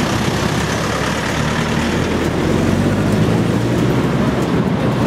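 Motorcycle engines running steadily, a dense low rumble.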